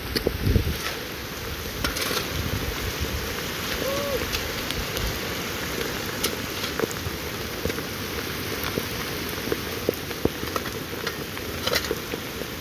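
Rain falling steadily, with many separate drop ticks, and a brief low rumble at the start.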